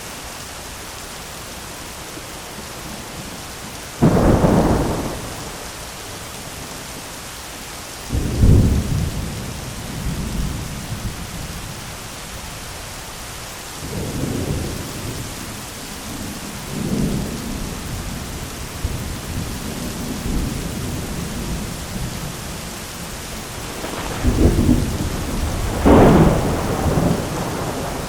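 Heavy rain falling steadily on an umbrella during a thunderstorm, with repeated rumbles of thunder. Sudden loud claps come about four and eight seconds in, softer rolls follow in the middle, and the loudest peals arrive near the end.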